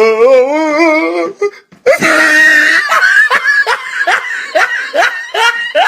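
A person laughing hard: a wavering, drawn-out laugh, then after a brief break a loud run of repeated laughs, two or three a second.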